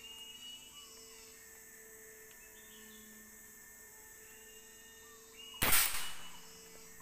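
A single sharp gunshot about five and a half seconds in, with a short fading tail, over a quiet background.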